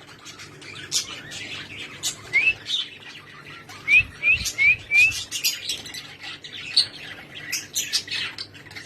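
Small pet birds chirping with many short, sharp calls, including a quick run of four rising chirps about four seconds in.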